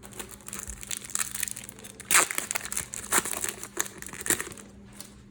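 Foil trading-card packet crinkling and crackling as it is handled and opened, in irregular bursts with louder snaps about two, three and four seconds in.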